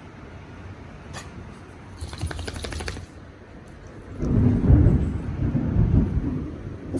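Thunder: a rapid crackling rattle about two seconds in, then a loud low rumble that swells and dies away over a couple of seconds.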